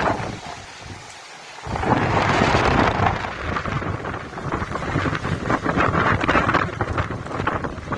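Heavy tropical-cyclone rain and wind, a loud rushing noise with crackle and low rumble; it dips briefly about a second in, then comes back loud.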